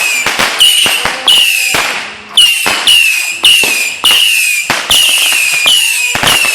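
Consumer fireworks firing a rapid series of whistling shots: each is a sharp pop followed by a high whistle sliding slightly down in pitch, about ten in quick, even succession.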